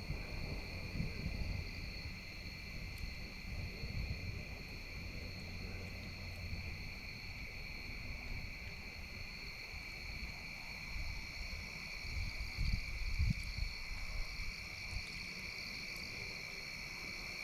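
A steady chorus of insects, crickets or similar, makes an unbroken high trill. Under it runs a low rumble that swells and fades, with a few faint clicks.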